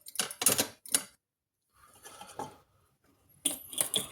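Tools and small hard parts clattering and clicking on a workbench while being handled: a quick run of sharp knocks in the first second, a light rustle around two seconds in, and another run of knocks near the end.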